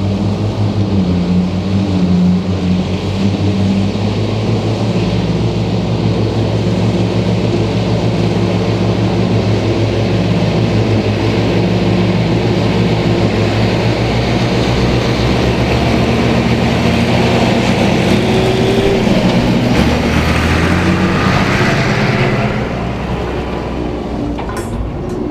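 Ford 8630 tractor's diesel engine running steadily under load while the PTO-driven Mengele SH40N forage harvester works; the level drops a little near the end.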